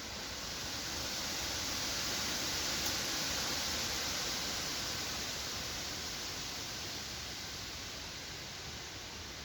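Wind blowing through forest trees: a steady rush of rustling leaves that swells over the first few seconds and then slowly eases.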